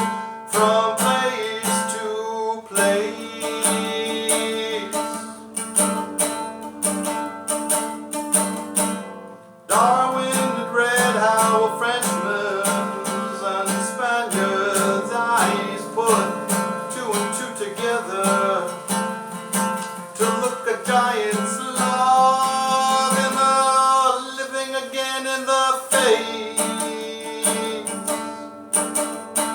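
Acoustic guitar strummed in a steady rhythm as accompaniment to a man's song, with a brief break about nine and a half seconds in.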